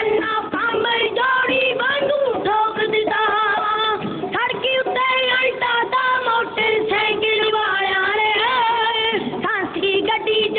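Punjabi dhadi folk song: a high voice sings a melody over a steady held accompanying note, with a dull, lo-fi sound that lacks the highest tones.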